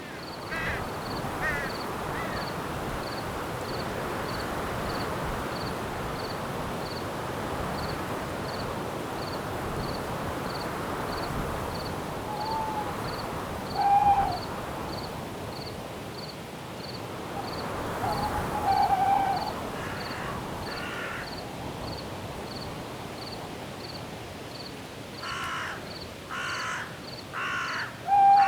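Wind in forest branches rising and easing, with a cricket chirping steadily about twice a second. Short harsh bird calls break in about halfway, again a few seconds later, and in a quick run of several near the end.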